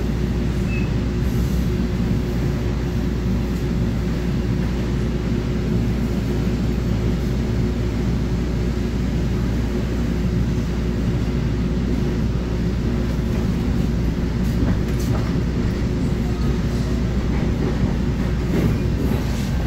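Steady running noise of an EXO commuter train heard from inside a passenger coach: a low rumble of wheels on track with a constant hum.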